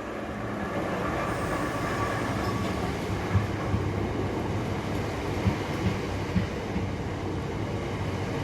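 Southeastern Class 465 Networker electric multiple unit pulling into the platform: a steady train rumble that grows slightly louder, with a faint whine in the first couple of seconds. From about three seconds in, there is a run of irregular clicks and knocks of wheels over rail joints.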